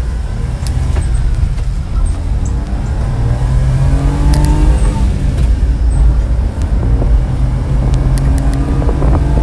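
1995 Honda mini truck's small three-cylinder engine pulling under acceleration as the truck is driven, its pitch climbing twice as it revs up through the gears, with steady road noise heard from the cab.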